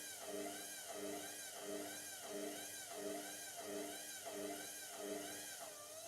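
Indesit MTWC71252WUK washing machine's motor turning the drum at slow tumble/distribution speed, its whine rising and falling in a steady cycle about every two-thirds of a second as the drum goes round. The single bath mat makes a lopsided load, and the machine is working at balancing it before the spin.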